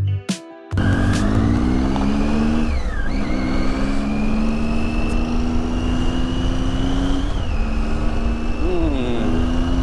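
Triumph Tiger motorcycle engine accelerating under way, its pitch climbing in each gear and dropping at upshifts about three and seven seconds in, with wind rush behind it. Music stops just before the engine comes in.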